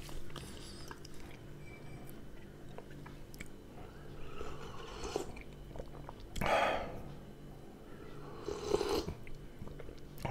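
Close-miked chewing and mouth sounds of a person eating, soft clicks and ticks throughout, with two louder mouth noises about six and a half and nine seconds in.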